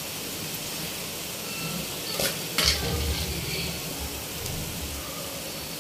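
Onions, green chillies and curry leaves sizzling steadily in hot oil in a pan, with two sharp clatters of a spoon against the pan about two seconds in.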